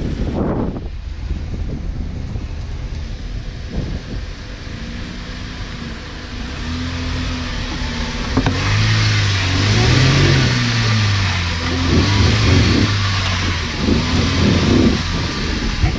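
Off-road 4x4 engine running, then revving up and down several times from about halfway through, with a rushing hiss joining in as the revs climb.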